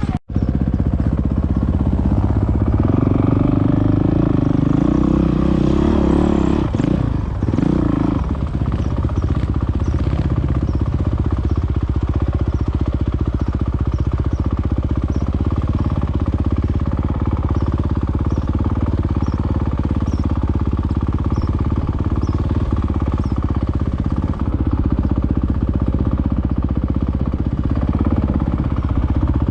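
Enduro motorcycle engine running steadily under way, with the revs rising and falling a few seconds in.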